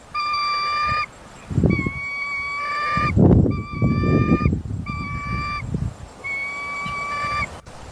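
Eagle calling: five long, flat-pitched calls, each about a second long, repeated with short gaps. Low rumbling noise sits under the middle calls.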